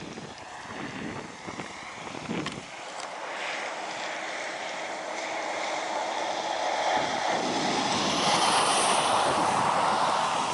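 Wind buffeting the microphone at first, then a steady rushing hiss that builds louder over the following seconds.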